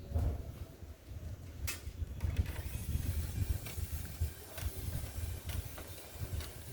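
Small electric fans running: an uneven low rumble of moving air on the microphone, with a faint high motor whine and a few scattered light clicks.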